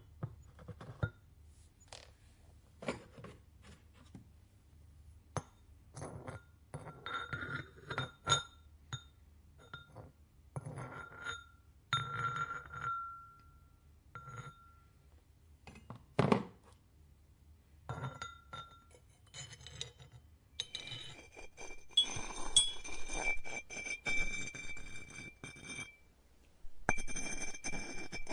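Hard ceramic or glass pieces clinking and tapping against each other, many separate knocks, several of them ringing out briefly on the same bright note. In the last third a busier, steadier noise with a high hum sets in.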